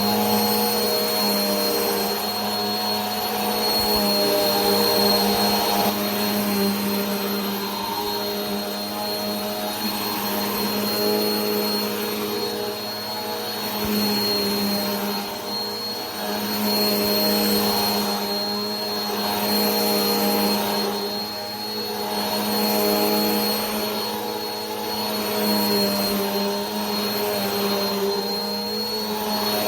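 Vacuum cleaner running continuously, a steady motor drone with a thin high whine. Its loudness swells and eases gently every two to three seconds.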